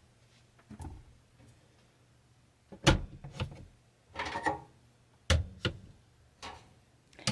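Sharp knocks and clicks of objects being handled and set down while cleaning inside a truck camper, the loudest about three and five seconds in.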